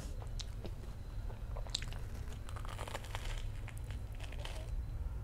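Biting and chewing a crispy breaded, cheese-filled corn dog, with scattered soft crunches of the fried crust.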